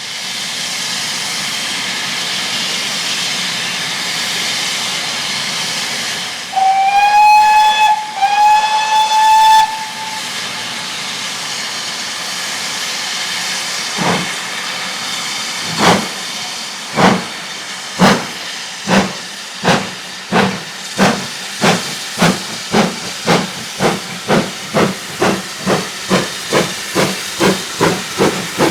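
Steam locomotive hissing steadily, then sounding two whistle blasts, each rising slightly in pitch. It then pulls away with exhaust beats that start slow and steadily quicken as it gathers speed.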